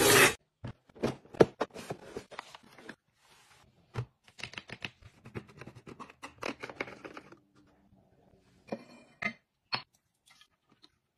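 Hands handling food packaging and plastic fridge organizer containers: a busy run of light taps, clicks and rustling, thinning out after about seven seconds, with a few sharp clicks near the end.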